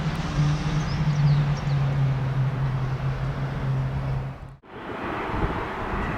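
Jet airliner engines running at take-off power: a loud, even rush of noise with a steady low hum underneath. The sound cuts out suddenly about four and a half seconds in, then the engine noise comes back.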